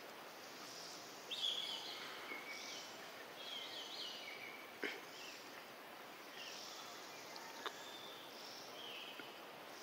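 Faint outdoor ambience: a steady background hiss with birds chirping on and off, and two sharp clicks, one near the middle and one later on.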